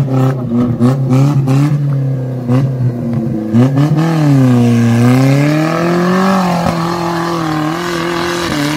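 Maruti Suzuki Gypsy's engine revving in short throttle blips, then revs rising and falling in longer swells as it climbs a steep dirt slope under load.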